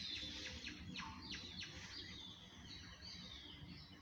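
Faint birdsong: repeated high chirps and trills, with a few quick falling whistles about a second in.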